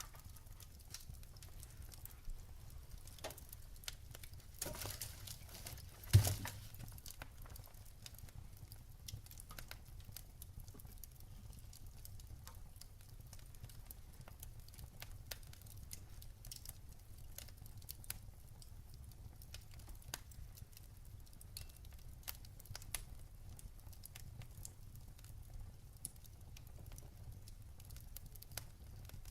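Wood fire burning in a fireplace: a low steady rumble of flames with irregular crackles, and one loud pop about six seconds in.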